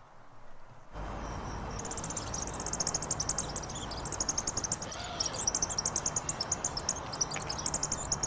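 Crickets chirping in a fast, high-pitched pulsing trill that starts about two seconds in, over a steady hiss of outdoor ambience that comes in about a second in.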